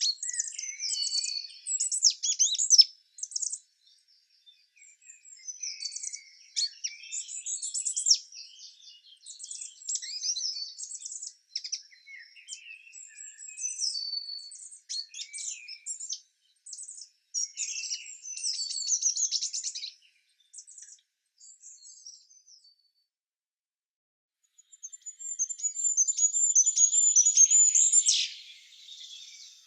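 Small songbirds singing in quick, high, twittering phrases, with a brief lull and then a longer, louder high trill near the end.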